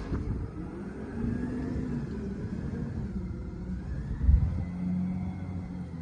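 Garbage truck's engine running, with a faint whine that rises and falls, and one low thump a little past four seconds in.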